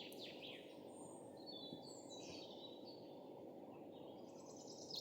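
Faint bird chirps and short calls over a low, steady background hiss.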